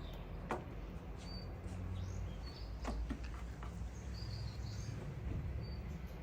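Small birds chirping in short, scattered calls, with a few sharp knocks and a steady low rumble underneath.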